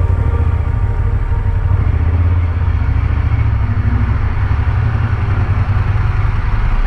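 Motorcycle twin-cylinder engine running steadily and loud, an even low rumble.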